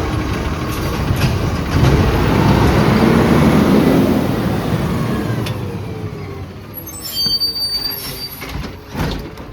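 Autocar ACX garbage truck driving by: its engine and road noise swell to the loudest about two to four seconds in, then fade. A brief high squeal comes about seven seconds in.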